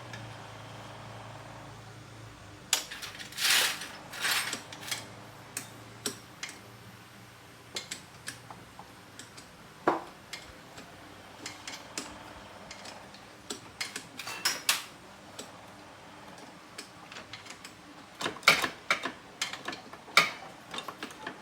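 Metal hand tools and engine parts clinking and clattering in irregular taps during motorbike engine work, with a cluster of louder clanks early and again near the end.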